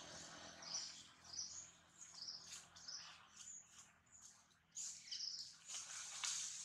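Faint, high-pitched chirping of birds: many short calls in irregular succession.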